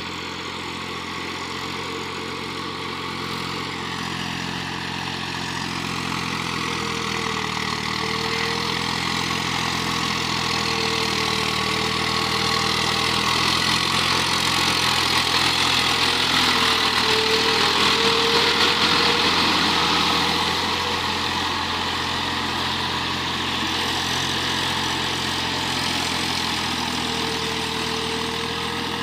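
Eicher DI 480 tractor's diesel engine running steadily, getting louder toward the middle and easing off again after about twenty seconds.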